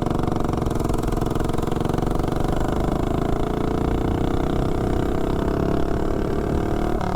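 Tillotson 212 single-cylinder four-stroke engine on a mini bike, pulling hard on part throttle during a 0-to-30 mph run, its pitch climbing slowly. It runs on 20% nitro fuel with the main jet drilled to a 180, which the rider feels is still too lean to take full throttle.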